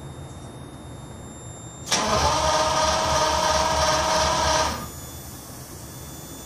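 Lamborghini Countach 5000 QV's V12 engine: a sudden loud burst of engine sound about two seconds in, held steady for about three seconds with a fast low pulsing underneath, then falling away to a low steady hum.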